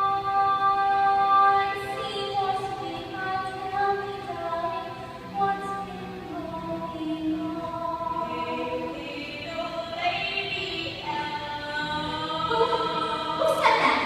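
A musical-theatre song performed live: sung, held notes moving from pitch to pitch over accompaniment, with a loud burst near the end.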